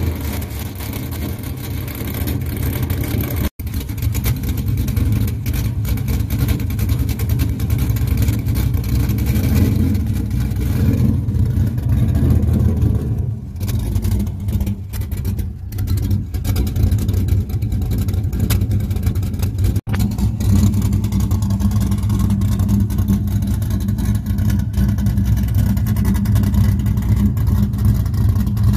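Fourth-generation Chevrolet Camaro's 5.7-litre LS1 V8, fitted with a big SNS stage 3 cam, running just after a cold start. Its level rises and falls a little. The sound drops out for an instant twice, once a few seconds in and once about two-thirds through.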